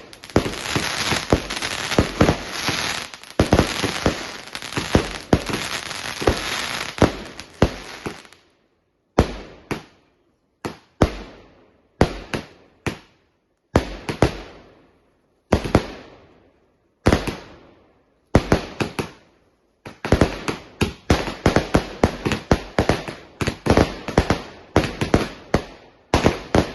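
20-shot, 25 mm consumer fireworks cake firing. A dense run of overlapping crackling bangs lasts about eight seconds, then comes a stretch of single bangs, each fading in a crackle. From about twenty seconds in, a dense crackling run starts again.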